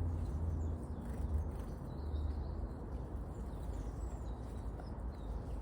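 A few faint, short high chirps from tits, about two seconds in and again near the end, over a steady low rumble.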